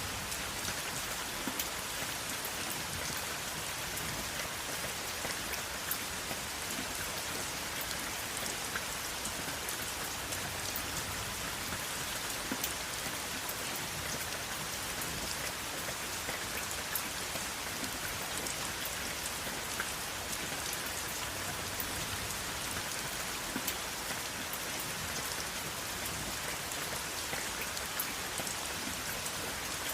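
Steady rain with no thunder, a constant hiss dotted with sharp drop ticks as it lands on a surface.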